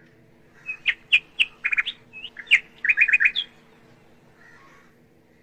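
Bird chirping: a string of short, loud chirps and quick trills of repeated notes, ending about three and a half seconds in.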